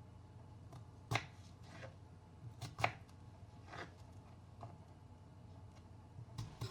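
A few light, irregularly spaced knocks and clicks of objects being handled, the two sharpest about a second in and near the three-second mark.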